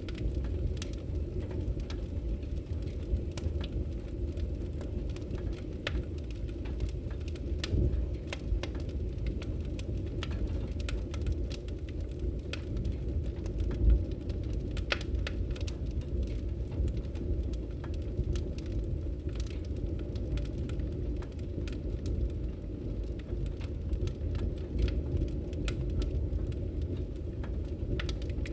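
Wood fire crackling in a fireplace: a steady low rumble of burning with many small, irregular pops and snaps, and one louder pop about halfway through.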